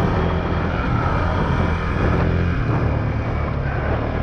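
Honda CRF450X's single-cylinder four-stroke engine running under way as the dirt bike is ridden, its note shifting slightly with the throttle. The bike has been giving off a buzzing rattle in gear, which the rider suspects comes from pushing first gear too hard.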